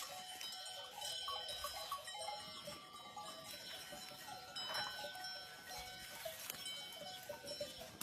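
Bells worn by a herd of goats ringing and clinking irregularly as the animals move about, several bell tones overlapping.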